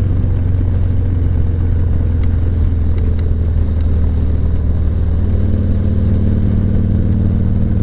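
Steady low drone of a moving vehicle's engine, with a slight change in its pitch about five seconds in.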